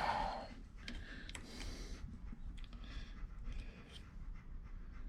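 A machine-tool motor and cutting noise dying away about half a second in, then a quiet stretch with faint scattered clicks and taps of small metal parts and tools being handled.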